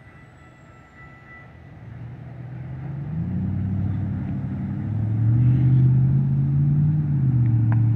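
A road vehicle's engine accelerating close by, building in loudness and shifting up and down in pitch as it moves through the gears, loudest in the second half.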